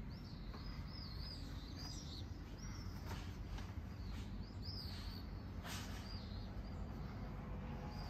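Small birds chirping: short, quick arching chirps, several in a row in the first two seconds and again around the middle, over a low steady rumble.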